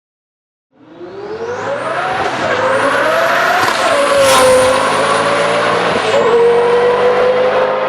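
Twin-turbo Lamborghini Gallardo V10 under hard acceleration: the engine note climbs, drops sharply at an upshift about 2 and 3.5 seconds in and again near 6 seconds, then pulls on steadily, with a thin high whine over it. It cuts in suddenly about a second in.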